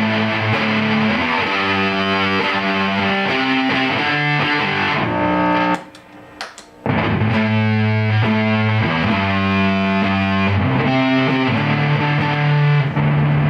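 Electric guitar played through a triple fuzz pedal, ringing out thick, distorted held chords that change every second or so. The playing stops for about a second near the middle, then picks up again.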